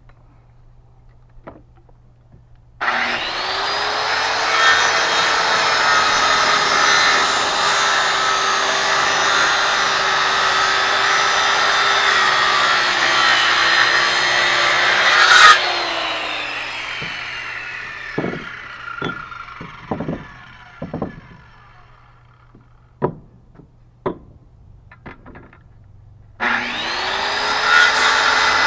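Electric power saw starting up and cutting through a wooden board for about twelve seconds, then switched off with the blade winding down. A few knocks of wood being handled follow, and the saw starts again near the end.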